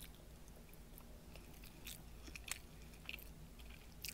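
A person chewing a mouthful of meatloaf and rice, faint, with a few small clicks scattered through.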